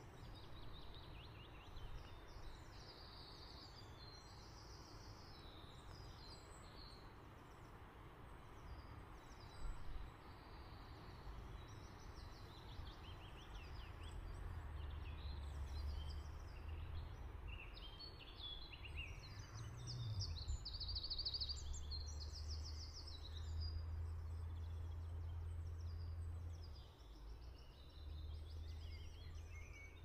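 Several small birds singing, with short chirps and trills overlapping throughout, over a low steady rumble of background noise that grows stronger about halfway through.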